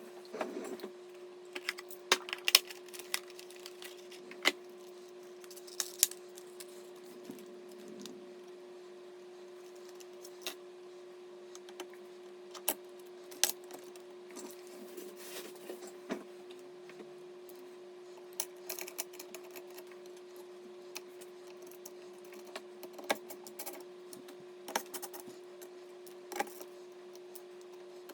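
Irregular light clicks, taps and small clatters of PC hardware being handled and fitted together, over a steady low hum.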